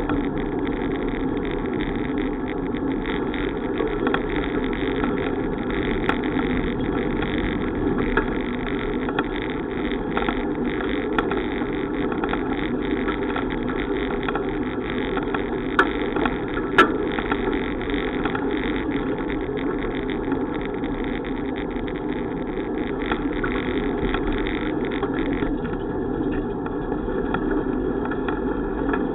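Steady rushing noise of a bicycle ride, wind and road noise on the camera, with two brief sharp clicks about halfway through.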